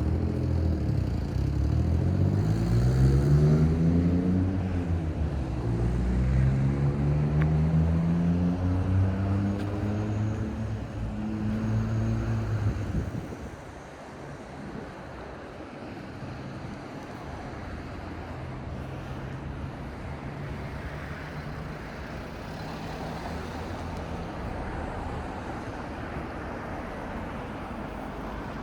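A nearby motor vehicle's engine, its note rising over the first few seconds, dipping, then holding steady until it drops away abruptly about halfway through. Later there is a fainter, steady engine hum over street noise.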